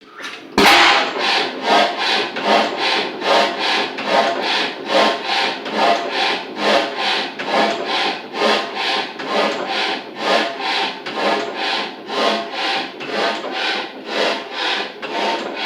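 20-horsepower Olin hit-and-miss engine running with an even beat of about three pulses a second. The beat starts with a sharp, loud pulse about half a second in.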